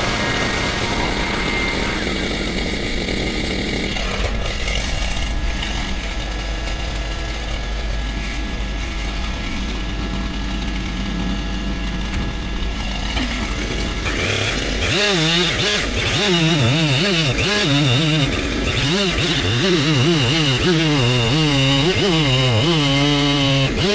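Chainsaw running steadily, then from about 14 s in its pitch rises and falls over and over.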